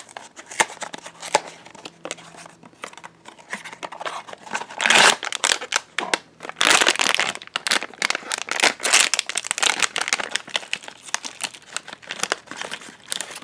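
Blind-box packaging crinkling and rustling as it is handled and opened by hand, with louder bursts of crinkling about five and seven seconds in.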